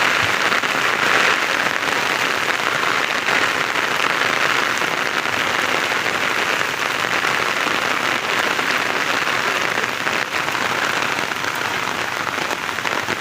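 Rain falling steadily: a dense, even hiss of drops on a surface that starts abruptly and holds at the same level.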